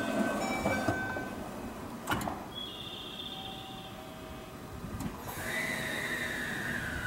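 289-series limited express train standing at the platform, with short electronic tones at several pitches, a sharp click about two seconds in, and from about five seconds in a whine that falls slowly in pitch.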